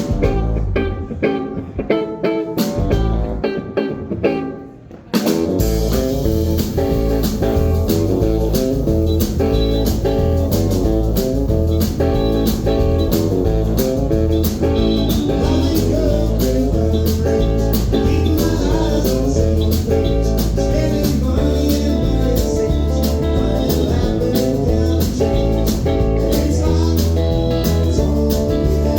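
Live band playing a guitar-led blues-rock song. A quieter opening dips away, then the full band with drums and bass comes in suddenly about five seconds in and plays on steadily.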